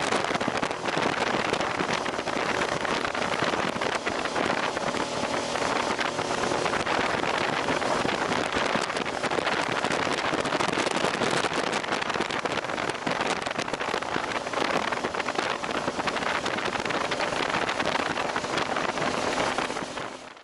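Steady wind rushing over the microphone while riding a motorcycle, with the engine running faintly underneath. The sound fades out near the end.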